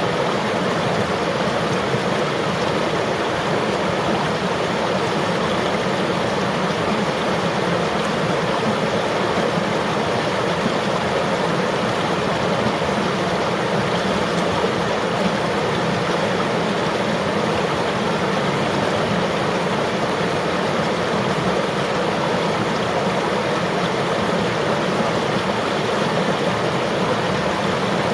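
River water flowing steadily, a constant rushing with no breaks or changes.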